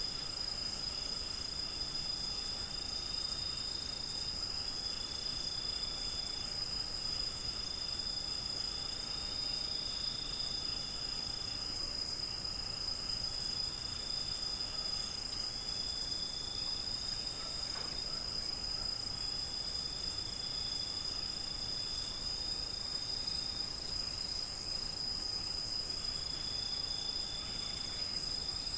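Crickets chirping in a continuous high, steady trill at night, with a second, lower trill starting and stopping in bouts of a second or two.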